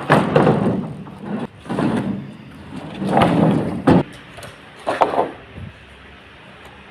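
A series of heavy knocks and thumps, four or five in all, the sharpest about four and five seconds in.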